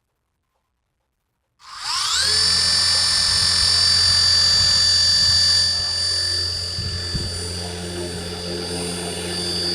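Small electric motor and propeller of a toy ball helicopter spinning up about a second and a half in with a quick rising whine, then running at a steady high whine that drops a little in loudness past the middle.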